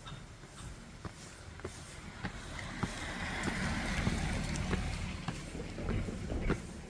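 Footsteps of someone walking on a trail, about two steps a second, over a low rumble and hiss that swell through the middle and ease off near the end.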